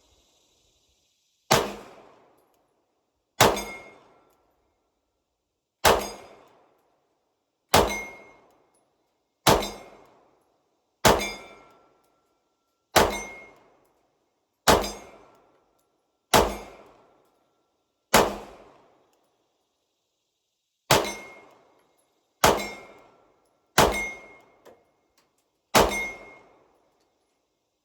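A slow string of fourteen gunshots, one every one and a half to two seconds, each answered by the ring of a steel target plate being hit.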